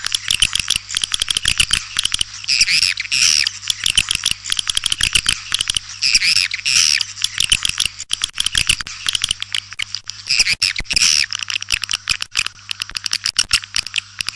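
Edible-nest swiftlets twittering: a dense, rapid chatter of clicks and chirps, with louder warbling calls coming back about every four seconds. A faint steady low hum runs underneath.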